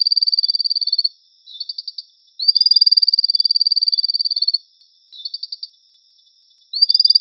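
A frog calling: a high, fast trill about two seconds long, opening with a brief upward slur, given three times and alternating with short bursts of about five clicks. It is a call that can easily be mistaken for a firefinch.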